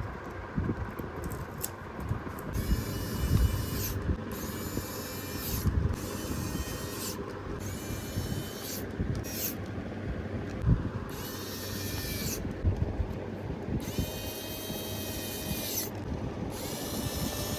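Repeated rubbing or scraping strokes of a tool on a mobile phone part, in about eight separate passes of roughly a second each, over a low background rumble.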